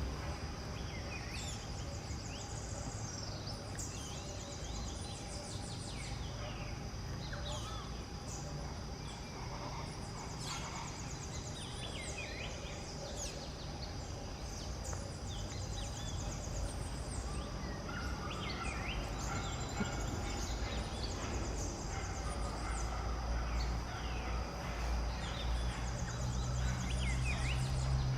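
Outdoor ambience with many birds chirping and calling over a steady high-pitched insect drone and a low rumble. A low hum grows louder near the end.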